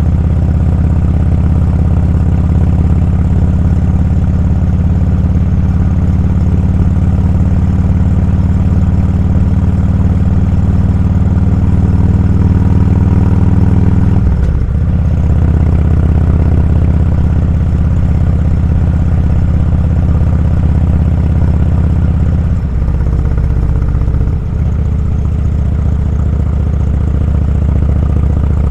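Motorcycle engine running steadily while riding. The engine note breaks briefly about halfway through and twice more later, as the pitch changes.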